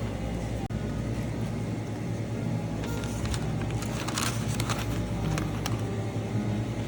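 A steady low machine hum, with a run of light clicks and clattering in the middle.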